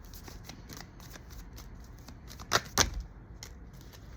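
Tarot cards being shuffled and handled, a run of small papery clicks, with two loud sharp card snaps close together about two and a half seconds in.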